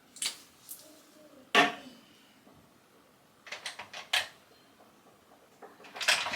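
Small hard objects clicking and knocking on a hard surface, picked up and put down: a couple of light ticks, a sharp knock about one and a half seconds in, then two runs of quick taps and clatter, the second near the end.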